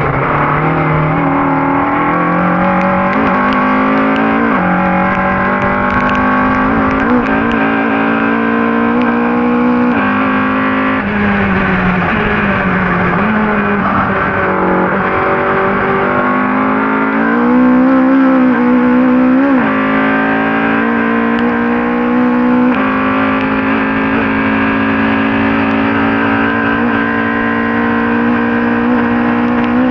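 Ford Cortina race car's engine running hard under racing load, its pitch climbing and then dropping sharply at gear changes. About halfway through the revs fall away over a few seconds, then climb again.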